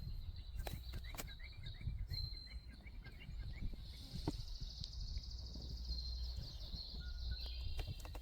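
Wild songbirds calling: a short high whistle repeated a few times, a quick run of chirps about a second in, and a buzzy trill about halfway through. Under them runs a low rumble of wind on the microphone, with a few sharp clicks.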